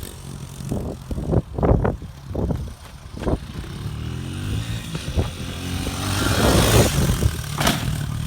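Pit bike engine revving up and down hard while ridden, its pitch rising and falling, with a few sharp knocks. A loud rushing hiss swells up about three-quarters of the way through.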